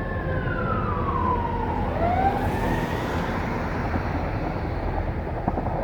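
Emergency vehicle siren wailing: its pitch falls slowly over about two seconds, then climbs again. A steady low rumble sits underneath.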